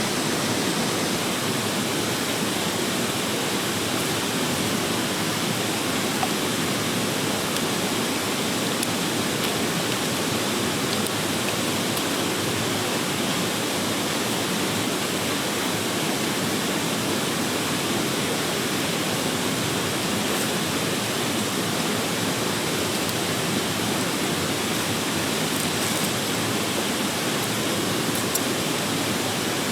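Mountain stream rushing over rocks, a steady, even roar of water.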